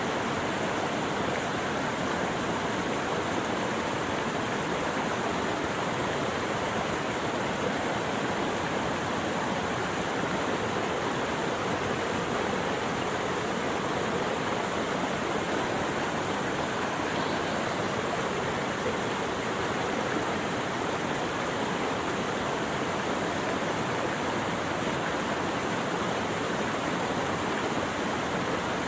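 Running water rushing steadily, an even noise with no breaks or changes.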